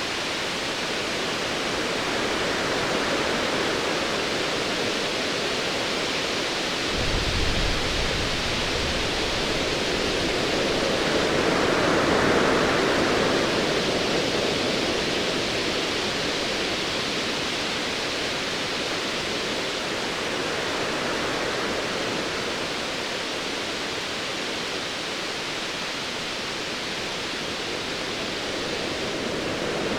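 Ocean waves washing in a steady noisy surge that swells to a peak near the middle. About seven seconds in comes a brief low rumble of distant thunder.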